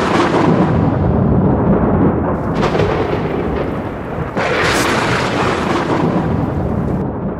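Thunder rolling, with fresh crashes about two and a half and four and a half seconds in, then dying away near the end.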